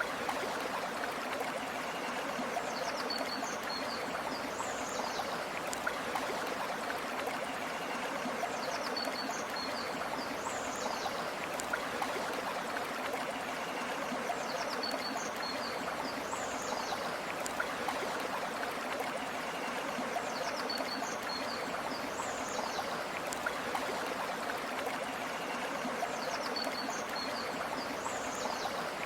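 River water flowing steadily, with a bird's short high chirps coming in pairs about every six seconds.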